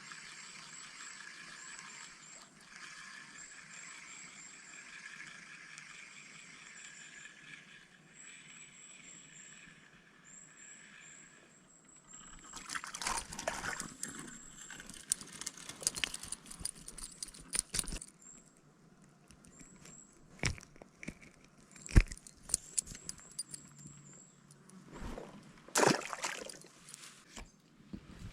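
Footsteps and crunching through forest undergrowth, with irregular loud cracks of twigs and brush from about twelve seconds in. Before that, a steady outdoor hiss with short, high, repeated chirps.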